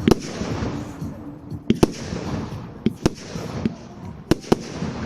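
Fireworks display: about eight sharp bangs, several coming in quick pairs, over a continuous crackling hiss from the bursting shells.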